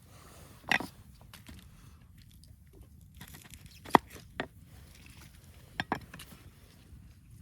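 A few scattered sharp knocks and clicks, about five in all: one just after the start, the loudest about four seconds in with a smaller one just after, and a quick pair near six seconds.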